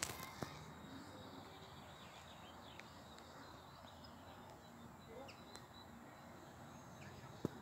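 Faint, scattered short high chirps of small birds over a quiet outdoor background. There are a couple of sharp clicks, one just after the start and one near the end.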